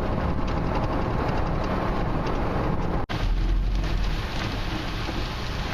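Rain falling on a moving truck, over a steady low rumble of road and engine. The sound cuts out for an instant about three seconds in and the low rumble comes back stronger.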